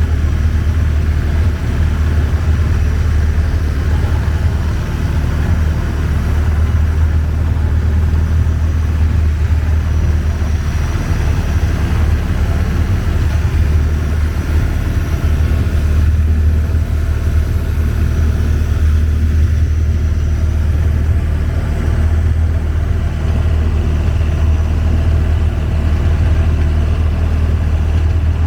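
Longtail boat engine running steadily under way: a loud, even low drone with no change in speed.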